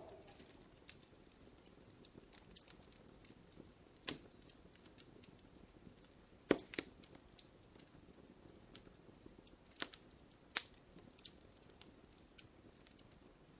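Wood fire crackling in a fireplace: irregular small snaps and a few louder pops over a faint hiss.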